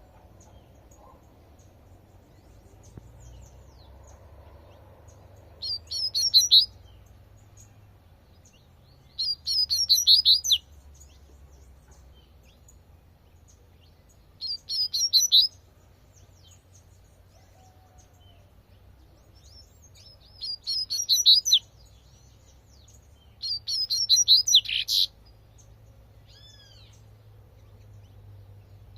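Double-collared seedeater (coleirinho) singing its 'tui tui' song: five short bursts of quick, high, repeated notes, about a second each, a few seconds apart, over a faint low hum.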